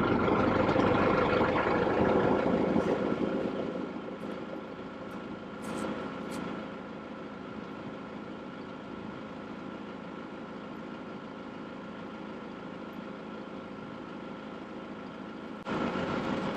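An engine running steadily at idle, loud for the first few seconds and then fading lower, with a sudden rise in level near the end.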